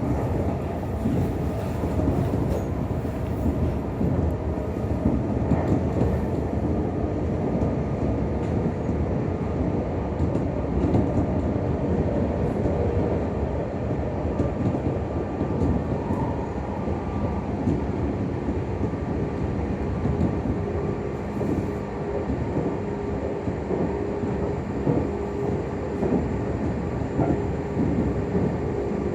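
Running noise of a Meitetsu 6000 series electric train heard inside the passenger car: a steady rumble of wheels on the rails with frequent light clatter and a low hum.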